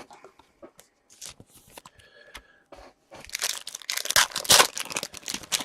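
A few light clicks of cards being handled, then from about three seconds in a dense crackling as a foil trading-card pack wrapper is torn open and crinkled.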